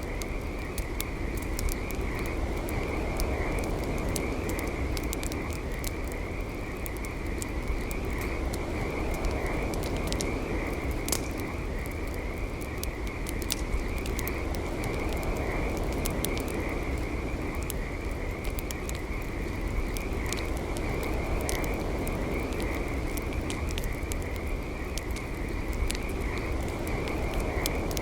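Campfire crackling with frequent sharp pops, over a steady trilling chorus of frogs that keeps on unbroken.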